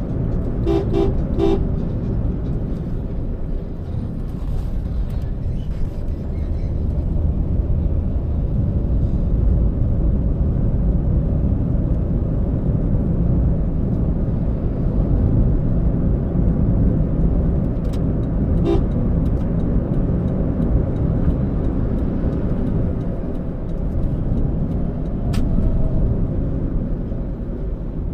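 Steady low rumble of a car driving on the road. A car horn gives three quick toots about a second in and a short toot again about two-thirds of the way through.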